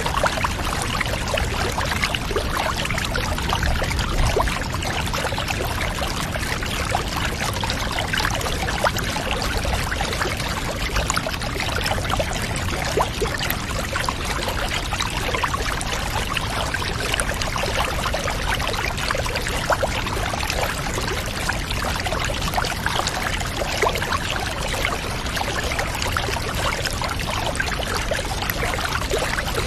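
Water running and trickling steadily into a bathtub, an even splashing rush with many small crackly splashes.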